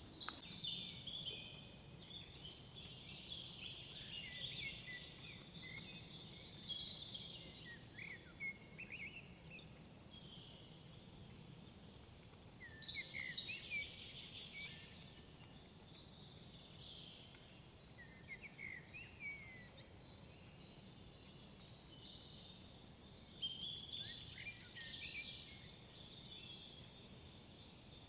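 Songbirds singing in woodland: phrases of quick chirps and high, fast trills recur every few seconds, with a faint steady background hum beneath.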